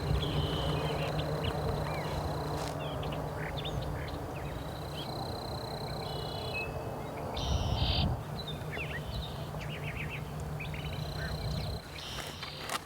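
Small birds chirping, with many short scattered calls, over a steady low rumble.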